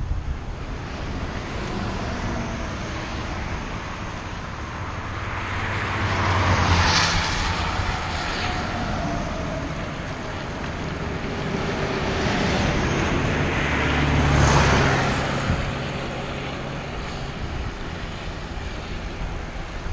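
Two motor vehicles passing by one after the other, each engine and its tyre noise growing louder and then fading, the first about seven seconds in and the second about fourteen seconds in, over steady road and wind noise.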